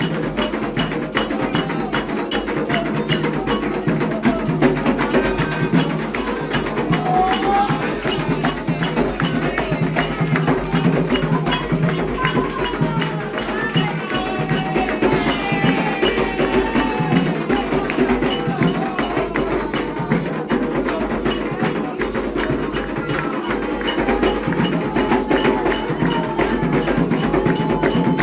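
Candomblé ritual music: atabaque hand drums and a struck bell keep up a fast, steady beat, with voices singing over it.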